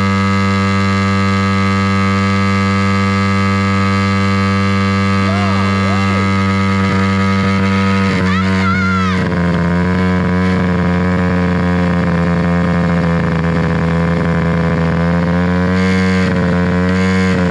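Pit bike engine held wide open while standing still, running at a steady high pitch against its rev limiter as it is deliberately run to destruction. The tone shifts slightly about eight to nine seconds in and wavers a little after that.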